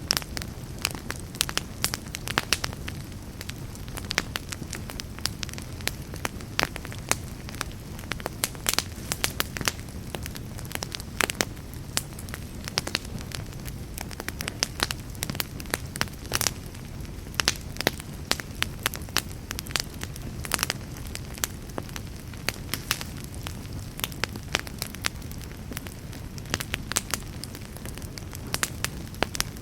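Fireplace fire crackling, with frequent irregular sharp pops and snaps over a low, steady rumble.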